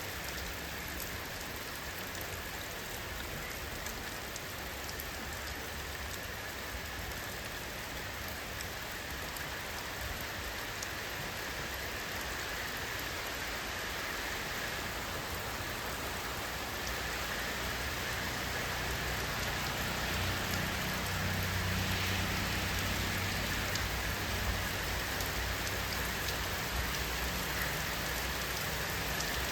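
Steady rain falling in an even hiss, with a low rumble swelling in underneath in the second half.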